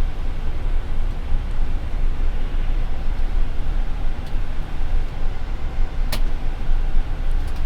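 Steady rumbling flight-deck noise of a Boeing 787 Dreamliner on approach, from airflow and the aircraft's systems, with a single sharp click about six seconds in.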